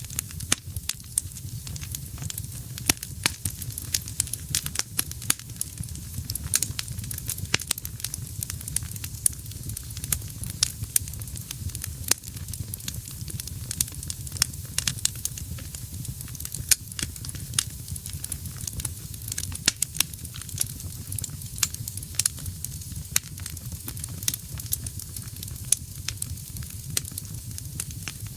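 Wood fire burning in a fireplace: a steady low rumble of flames under frequent, irregular sharp crackles and pops from the burning wood.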